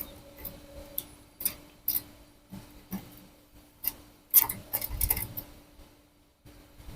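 Irregular sharp clicks and taps, with a quick cluster of them about four to five seconds in, over a faint steady hum.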